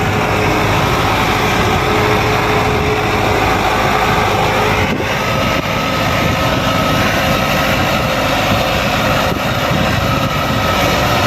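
Sonalika 750 tractor's diesel engine running steadily under load, pulling a trailer full of soil. A thin whine in the engine noise shifts to a higher pitch about halfway through.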